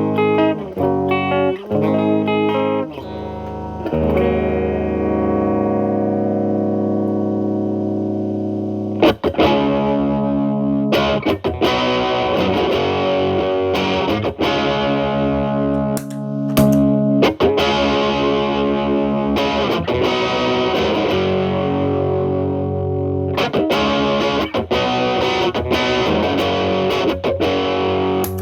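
Electric guitar (Telecaster) through an MI Audio Crunch Box distortion pedal into a Marshall Valvestate amp's clean channel, playing overdriven chords. A chord is left ringing for several seconds, then from about nine seconds in the playing gets busier and fizzier, with the pedal's gain turned up to 10.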